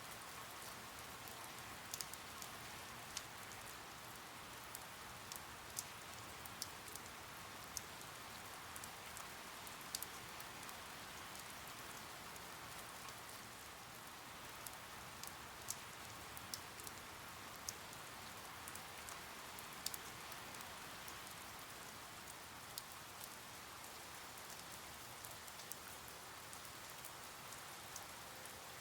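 Steady rain: an even hiss with scattered sharper drops ticking every second or so.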